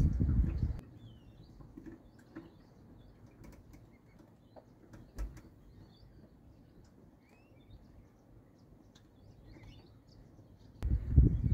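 Small birds calling faintly, scattered short chirps and twitters over a quiet background. A low rumbling noise fills the first moment and comes back near the end.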